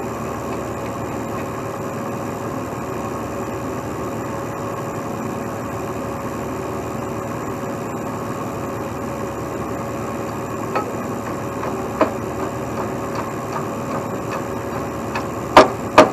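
Heavy truck diesel engine idling steadily, with a few light knocks later on and two loud sharp bangs close together near the end.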